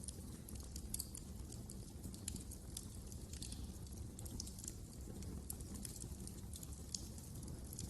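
Wood fire crackling: quick, irregular sharp pops and snaps over a steady low rumble of flames.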